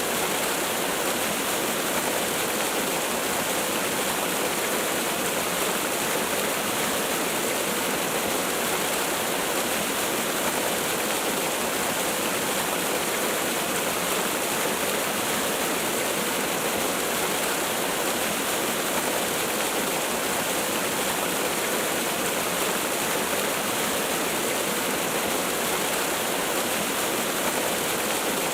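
Waterfall: a steady, even rush of falling water, unchanging in level.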